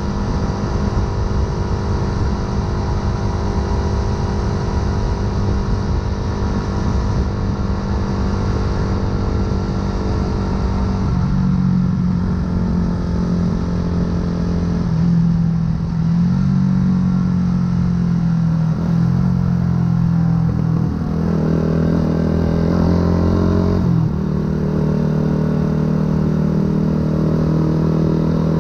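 2008 Yamaha YZF-R125's 125 cc single-cylinder four-stroke engine running under way through a full aftermarket exhaust. The note holds steady for the first part, then rises and drops several times in the second half as the throttle and gears change.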